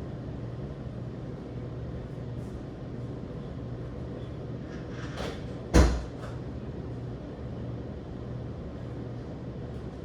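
Steady background noise with a low hum, broken by one sharp bang a little over halfway through that dies away quickly.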